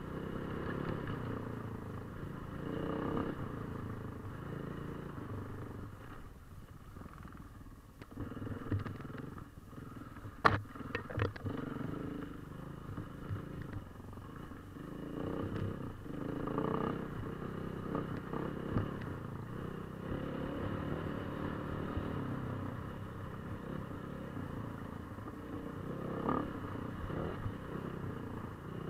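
KTM 450 EXC's single-cylinder four-stroke enduro engine running as the motorcycle is ridden, its level rising and falling. A few sharp knocks come about ten to eleven seconds in.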